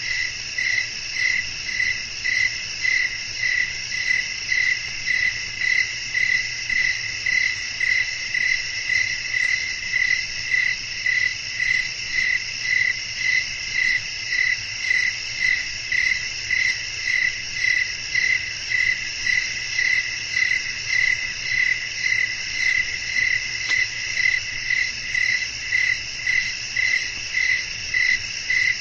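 Night chorus of crickets: one cricket chirping steadily, about three chirps every two seconds, over a continuous higher-pitched trilling of other insects.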